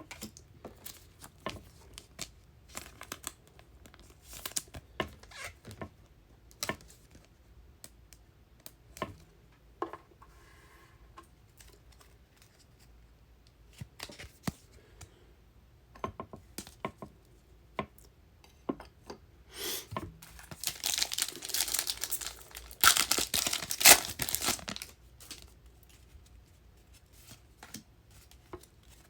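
Trading cards handled with many small clicks and slides, then about twenty seconds in a foil trading-card pack wrapper torn open and crinkled for several seconds.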